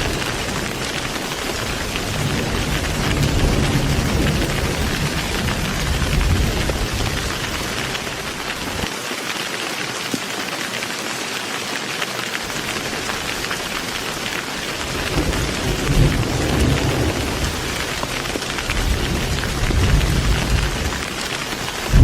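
Heavy rain falling as a steady hiss, with low rolling thunder rumbling in the first few seconds and again in the last third.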